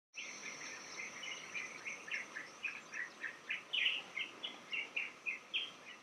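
A bird calling in a quick, continuous run of short chirps, about three or four a second, over a steady high-pitched insect drone.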